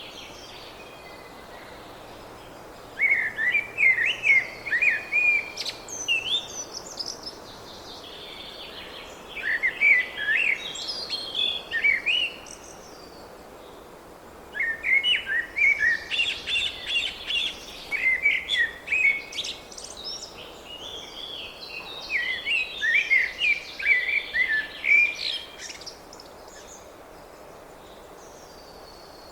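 A small songbird singing in four separate bursts of quick, high chirping notes, with pauses between them, over a steady background hiss.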